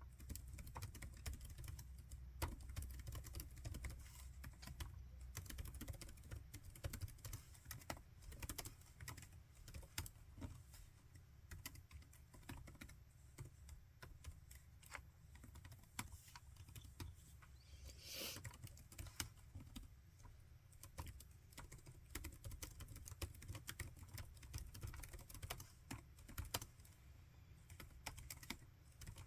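Laptop keyboard being typed on steadily and faintly: an uneven stream of soft key clicks. One short hiss-like rush of noise comes about two thirds of the way through.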